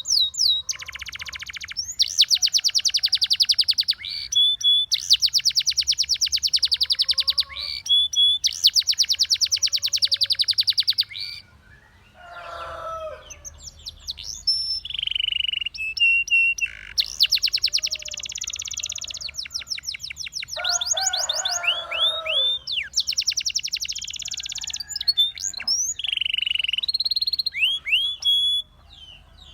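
Russian singing canary singing: long, very fast trills of repeated high notes, each lasting one to two seconds, broken by short rising whistles and a couple of lower warbled phrases.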